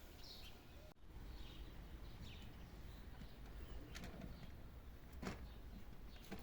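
Quiet outdoor ambience: scattered faint bird chirps over a steady low rumble, with one sharper tap a little over five seconds in.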